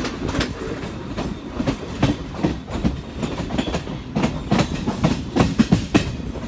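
Suburban EMU electric train's wheels clattering over rail joints as the train runs, heard from inside the coach, over a steady low rumble; the knocks come irregularly and crowd together, loudest near the end.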